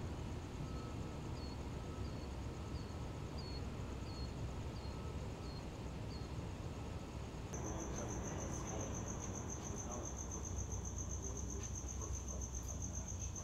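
Crickets trilling steadily in a high, pulsing tone that grows louder about halfway through, over a low background rumble. During the first half a short chirp repeats about every half second.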